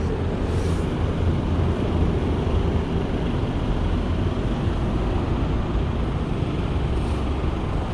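Harley-Davidson Shovelhead V-twin engine running steadily at idle, carrying an abnormal noise that the riders think may be a loose belt flapping.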